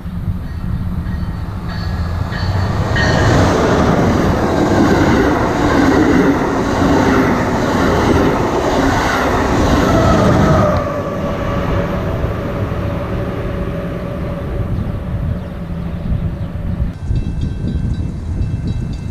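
Amtrak Acela Express electric high-speed trainset passing at speed: a rush of wheels and air builds over the first few seconds and stays loud for about seven seconds. It drops off abruptly about eleven seconds in as the end of the train goes by, leaving a fainter steady hum.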